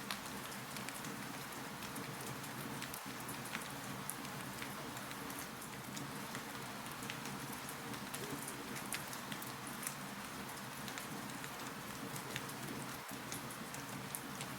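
Wood fire crackling in a fireplace: a steady hiss with frequent small, sharp pops.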